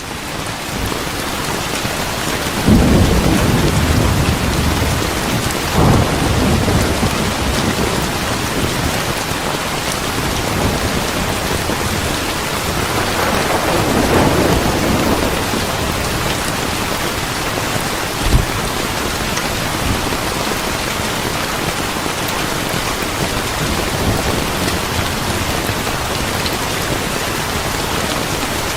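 Steady heavy rain with thunder: a loud rumble about three seconds in, another shortly after, a longer rolling rumble around the middle, and a short sharp clap a few seconds later.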